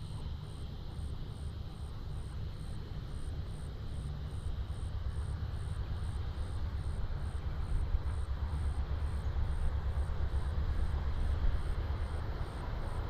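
Amtrak Silver Meteor passenger train approaching, a low rumble that grows steadily louder as it nears.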